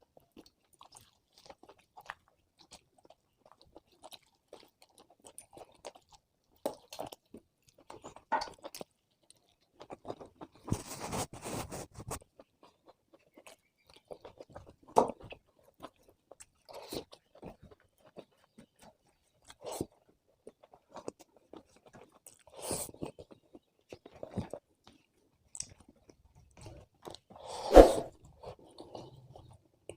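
Close-miked eating sounds of a person eating chicken biryani and roast chicken: wet chewing and mouth sounds with intermittent crunchy bites, the loudest bite near the end.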